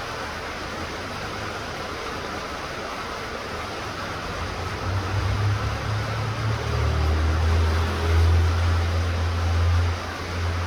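Steady rain falling, with a low rumble that swells about halfway through, is loudest a little later, and drops away near the end.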